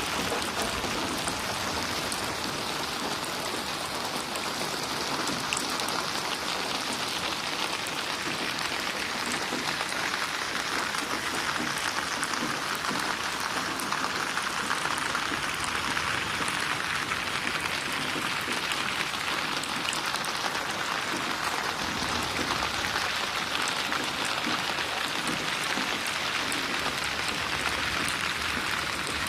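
Steady rain falling and splashing on a surface, a dense, even patter of drops with no thunder.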